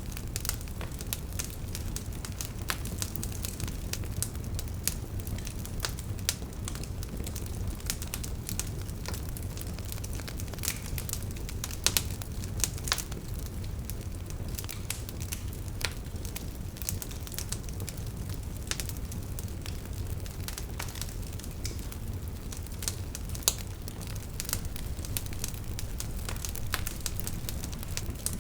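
Wood fire burning: logs crackling with frequent irregular sharp pops over a steady low rumble of flame, with a few louder pops standing out.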